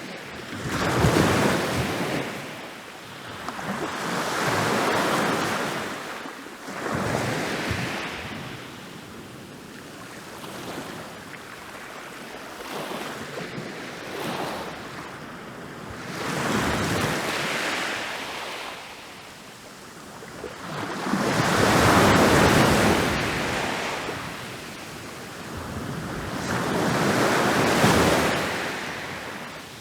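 Ocean waves rolling in and breaking on a beach, the surf rushing up and falling back about six times, with the loudest breaks in the last third.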